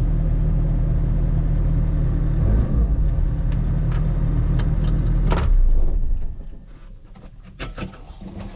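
Mini excavator's diesel engine running steadily, then shut off: a sharp click about five and a half seconds in, and the engine dies away about a second later. Scattered small clicks and knocks follow.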